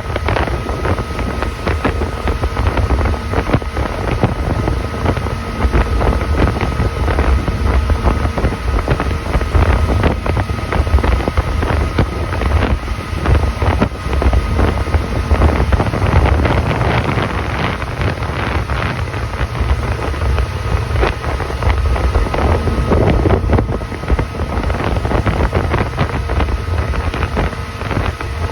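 Motorboat running underway: a steady low engine rumble with a faint steady whine, and wind buffeting the microphone.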